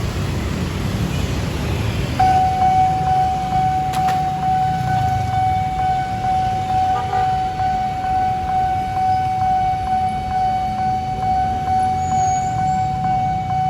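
Nippon Signal level-crossing warning alarm switching on about two seconds in and sounding as one steady high tone, over a low rumble of vehicle traffic.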